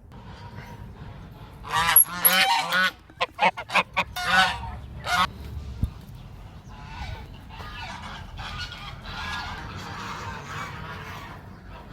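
Geese honking: a burst of loud honks about two seconds in, a few short sharp calls over the next few seconds, then a quieter run of overlapping honks.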